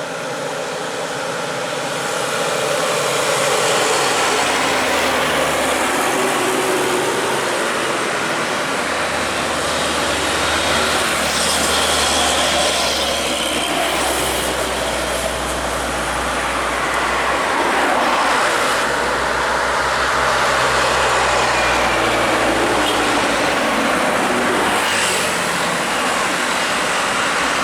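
A bus running on the road, with steady engine and road noise throughout; the low engine note shifts in pitch several times.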